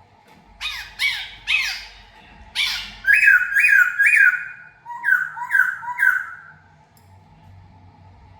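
Laughingthrush (khướu) calling loudly: about ten short calls in three quick runs, stopping about seven seconds in.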